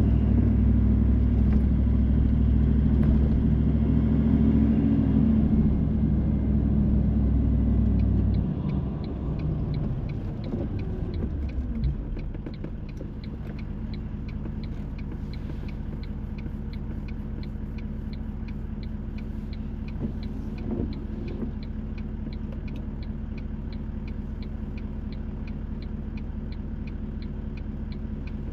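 Car interior sound: engine and road rumble that drops away about eight seconds in as the car slows with falling pitch and comes to a stop. The car then idles quietly while a regular tick, like a turn-signal indicator, repeats evenly.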